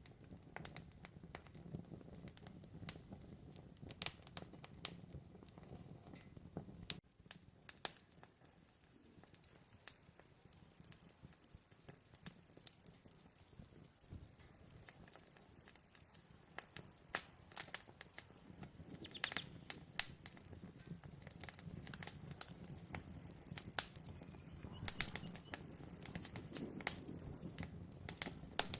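Campfire crackling with scattered sharp pops. About seven seconds in, a cricket starts a fast, steady high trill that runs on over the crackle, breaking off briefly near the end.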